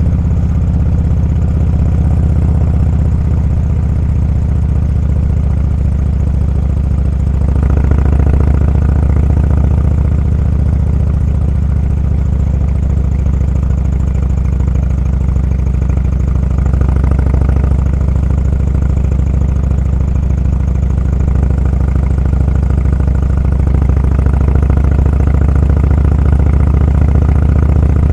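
Motorcycle engine running with a steady low drone, getting a little louder and brighter about seven seconds in.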